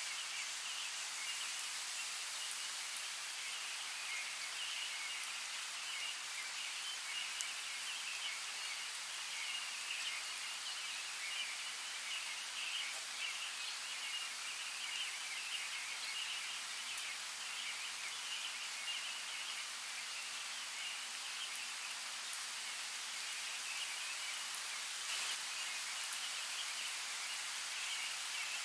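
Rain falling steadily as an even hiss, with occasional sharp drop ticks and a wavering high-pitched band over it.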